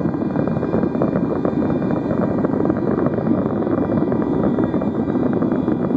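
Fireworks barrage heard from a distance: many shells bursting in quick succession, merging into a continuous rumble with dense crackling.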